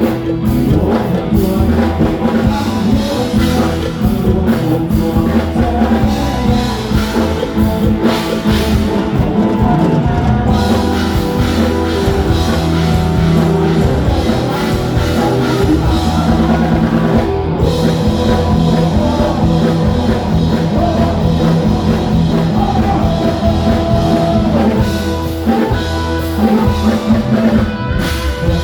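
Live rock band playing through a PA: drum kit, bass and electric guitar, with singing.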